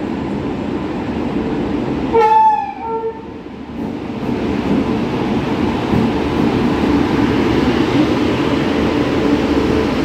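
Indian Railways express train running into a station. About two seconds in, its locomotive sounds the horn in two short blasts. Then the rumble of the locomotive and coaches passing close by grows louder and stays steady.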